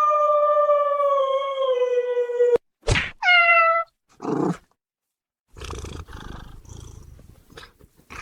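A pet's long drawn-out wailing cry that falls slightly in pitch and stops abruptly about two and a half seconds in, followed by a shorter falling cry and a brief noisy burst. After a short gap comes low rustling and handling noise.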